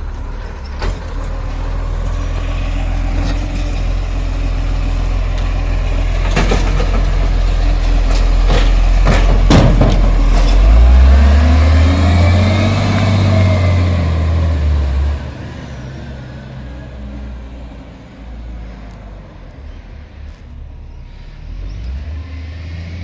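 Garbage truck working a wheelie bin: the diesel engine revs up to drive the lift arm, with several sharp clanks in the middle. The engine rises and then falls in pitch and drops back to a quieter idle about fifteen seconds in.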